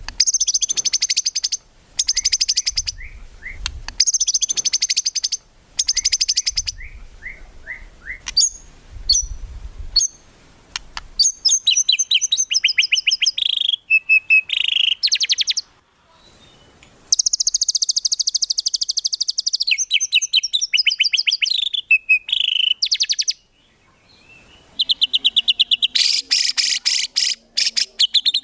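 White-rumped shama singing a loud, varied song: phrases of fast trills and sharp whistled notes about a second or two long, separated by short pauses.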